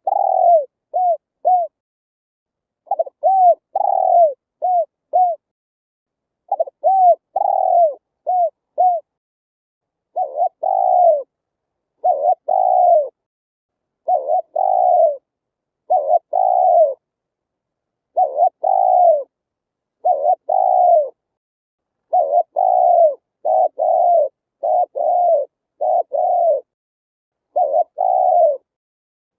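Spotted dove cooing over and over: short groups of coos, each note arching up and falling in pitch. At first the groups come every few seconds; about halfway through, the coos come steadily every second or two.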